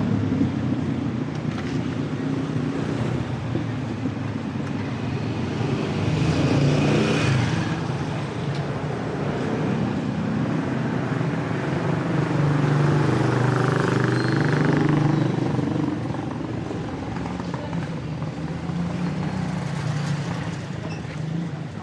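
Street traffic, with motor vehicles running and passing close by. The engine noise swells twice: about a third of the way in and again just past the middle.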